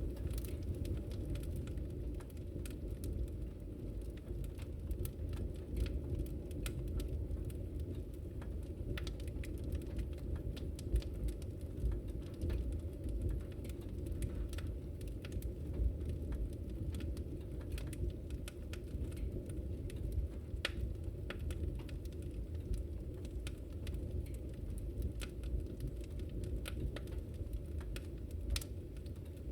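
Wood fire burning in a fireplace, crackling with frequent small irregular pops over a steady low rumble of flames.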